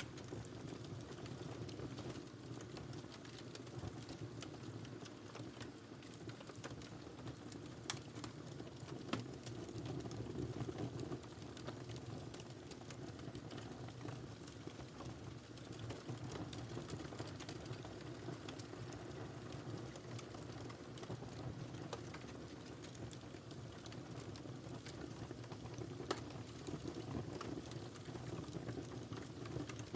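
Wood fire burning in a fireplace: a steady low rumble of flames with scattered crackles and pops, a few of them sharper and louder, about a third of the way in and again near the end.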